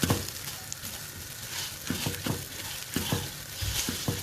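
Rice and vermicelli toasting in hot fat in a pot, with a steady sizzle, while a spoon stirs it and knocks against the pot several times at irregular intervals.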